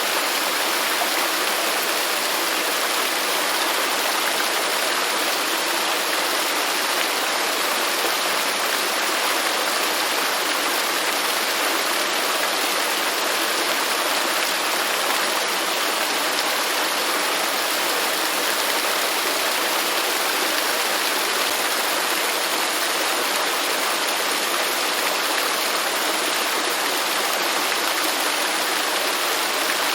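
Waterfall: falling water rushing in a steady, even hiss, weighted toward the high end with little deep rumble.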